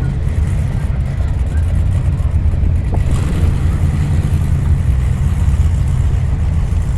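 Steady low rumble of a car running: engine and road noise, with no sudden changes.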